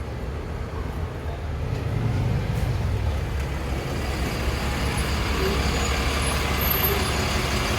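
Bus engine running with a low rumble, growing louder over the first few seconds as it draws near.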